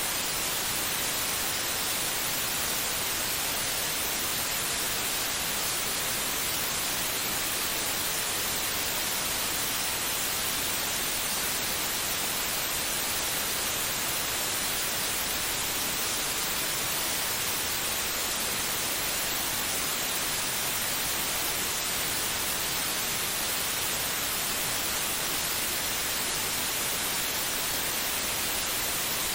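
Steady white noise: an even, unbroken hiss across all pitches, brightest in the upper range, with no change, pulse or rhythm.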